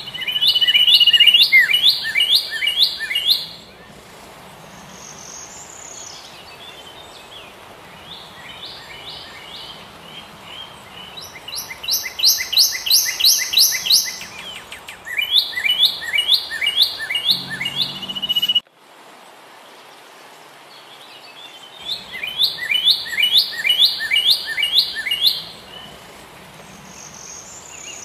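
Bird song: a songbird singing four runs of quick, evenly spaced chirps, with pauses between them, over a faint steady background hiss.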